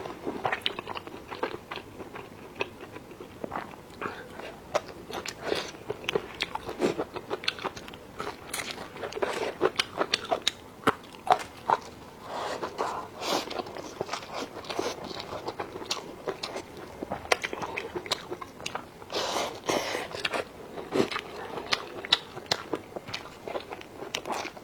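A person chewing and biting food close to the microphone, with many irregular crunchy, wet mouth clicks.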